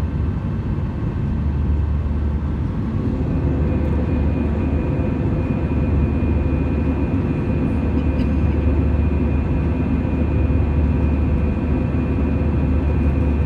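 Airbus A320 cabin noise in flight: a steady deep engine and airflow drone, with a faint high tone joining a few seconds in.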